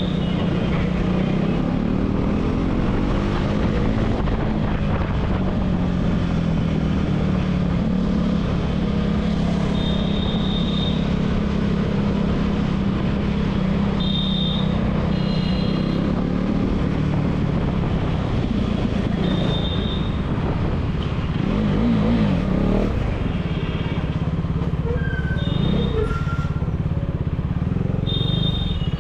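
Exhaust of a KTM Duke 390's single-cylinder engine through an aftermarket dual exhaust, the motorcycle running at a mostly steady engine speed while being ridden. Short, high beeps sound several times over it.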